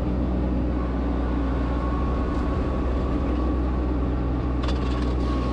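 Solis H24 compact tractor's three-cylinder diesel running steadily while towing a dethatcher, with a thin steady whine joining about a second in.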